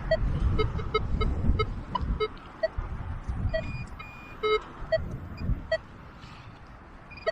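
Metal detector giving a string of short, irregular beeps at two or three different pitches as the coil passes over targets, with wind rumbling on the microphone underneath.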